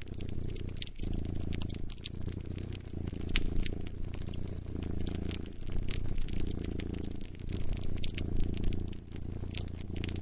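A cat purring close up, in slow swells with each breath, over the scattered sharp pops and crackles of a wood fire.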